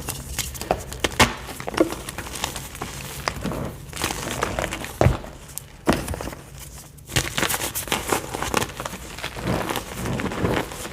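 White gym chalk being crushed, a soft, irregular crunching and crackling of many small breaks, with a few louder crunches about one, five and seven seconds in.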